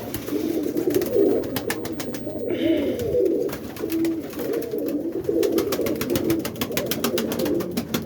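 Many domestic roller pigeons cooing in a loft, overlapping low warbling coos.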